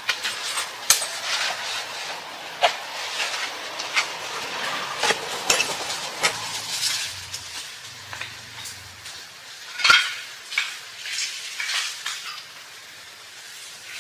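A utensil stirring and scraping in a cooking pot or pan, with irregular clinks and scrapes over a light steady hiss.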